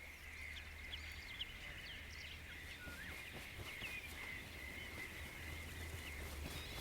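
Marsh ambience: many short bird calls and chirps over a steady high-pitched chorus, with a low rumble underneath.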